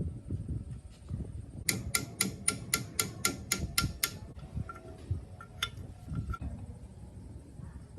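A quick run of about ten sharp, evenly spaced clicks, about four a second, then one more click a moment later, over a low rumble of workshop handling.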